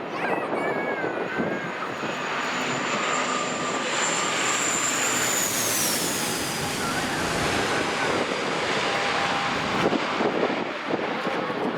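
Airliner passing close, its engine whine high and steady, then sliding down in pitch about six seconds in as it goes by, over a noisy rush of engine and strong wind on the microphone.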